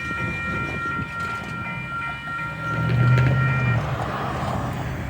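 Union Pacific diesel-hauled freight train approaching the crossing: a low engine rumble swells about three seconds in. A steady high ringing tone runs with it and stops about four seconds in, and a rushing noise follows.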